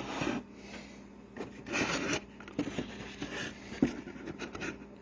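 Light scraping and rubbing with a few sharp knocks as a finished wooden tray is handled and moved on a surface. The longest scrape comes about two seconds in and the sharpest knock near the end.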